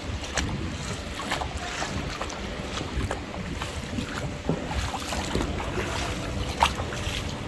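Floodwater sloshing with irregular splashes, and wind buffeting the microphone.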